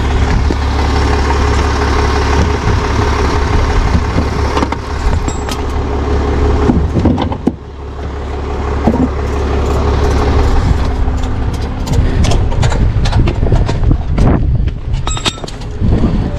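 Motor vehicle engine running steadily with road noise, dropping briefly about seven seconds in. Scattered clicks and knocks in the last few seconds.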